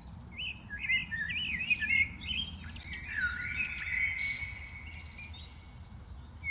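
Several small songbirds chirping and singing, quick rising and falling chirps at first, then a longer drawn-out note in the second half, over a steady low background rumble.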